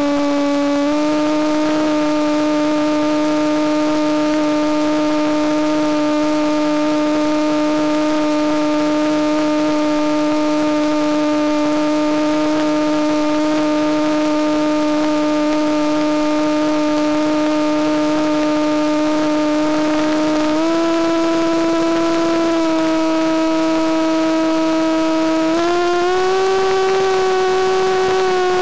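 Electric motor and propeller of a Penguin FPV model plane whining steadily in flight. The pitch steps up slightly about a second in, again about three-quarters of the way through, and once more near the end as the throttle is raised.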